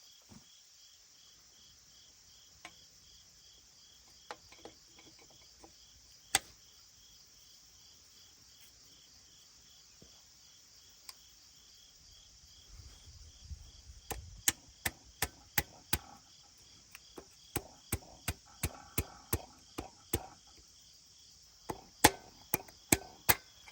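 A few scattered sharp taps, then runs of quick sharp taps or clicks about two to three a second, about fourteen seconds in and again near the end, as of hand tools knocking on engine parts. Crickets chirp steadily underneath.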